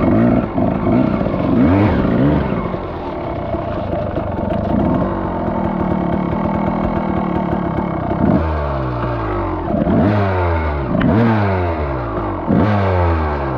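Dirt bike engine running and being ridden, the revs rising and falling with the throttle; in the second half the pitch swings up and down repeatedly as the throttle is worked.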